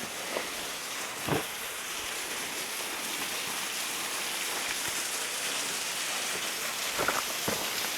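A 37-foot waterfall running at low flow, a steady hiss and patter of water falling into its pool. A few soft knocks come about a second in and again near the end.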